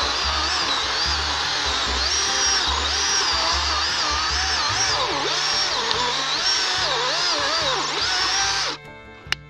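Chainsaw running at full throttle through a cut, its engine pitch rising and falling as the chain bites into the wood, stopping suddenly near the end.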